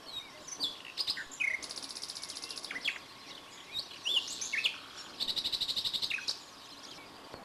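Songbirds singing: short whistled chirps and slurred notes, with two fast, high trills of about a second each, the first about a second and a half in and the second near the end.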